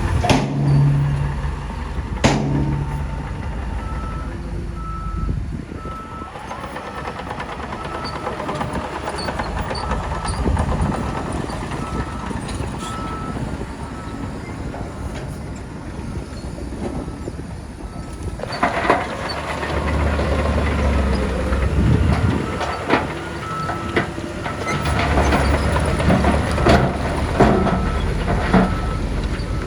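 Diesel engine of heavy earthmoving machinery running, with a reversing alarm beeping steadily at one pitch, about twice a second. About two-thirds of the way in the engine gets louder under load, with clanks and knocks.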